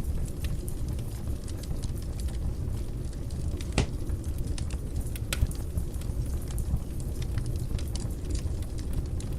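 Fire burning in a fireplace: a steady low rush of flames with scattered sharp crackles and pops, the loudest about four seconds in.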